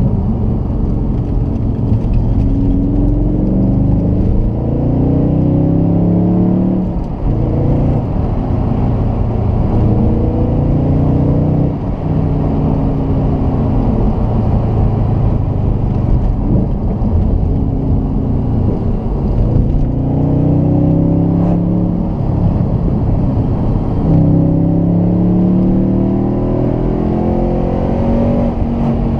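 Audi RS4 B7's 4.2-litre V8 exhaust, its rear silencers bypassed, pulling hard through the gears. The note climbs in pitch, drops back at each upshift and climbs again, several times over.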